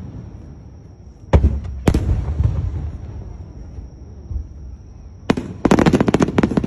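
Fireworks bursting: two sharp booms about a second and a half in, followed near the end by a dense run of rapid crackling pops.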